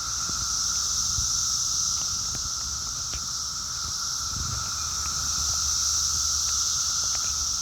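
Cicadas in a dense, crazy loud chorus: a steady, unbroken high buzzing drone at two pitches that swells a little and eases back. A faint low rumble and a few light knocks sit underneath.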